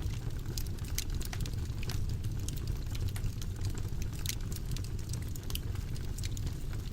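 Wood fire burning in a fireplace, crackling with irregular sharp pops, several a second, over a steady low rumble of the flames.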